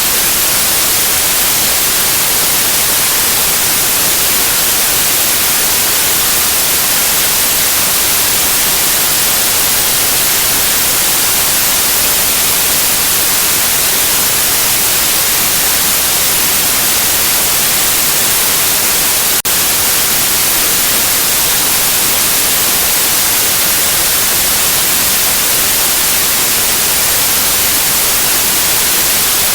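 Continuous white noise: a steady, even hiss, loud and unchanging, with one brief click about two-thirds of the way through.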